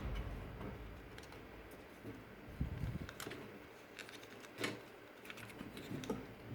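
Scattered light plastic clicks and taps of a transformable Optimus Prime robot toy being handled, a few irregular clicks over faint background hiss.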